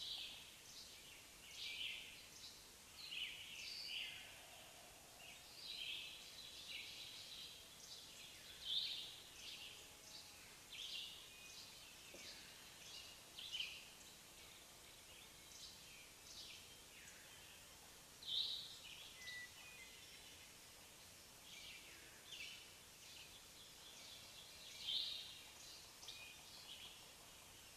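Small birds chirping: short, high chirps repeated irregularly about every second or so.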